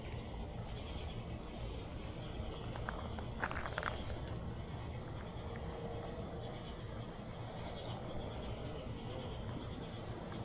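Steady high-pitched chorus of crickets and other night insects, with a few faint clicks about three and a half seconds in.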